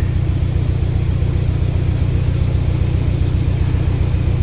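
Narrowboat diesel engine idling, a steady low, rhythmic thudding.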